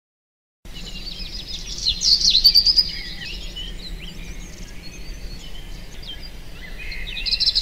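Songbirds singing and chirping, with several calls and trills overlapping and a steady low hum beneath. It starts after a short silence. The song is busiest about two seconds in and again near the end.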